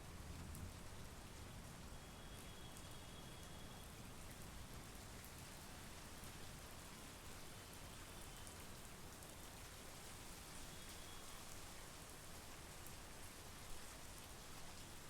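Steady monsoon rain: a soft, even hiss with scattered sharp ticks of individual drops.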